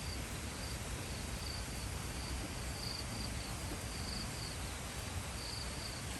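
Insects, likely crickets, chirping in short high-pitched trills that repeat every second or so, often in pairs, over a steady outdoor hiss.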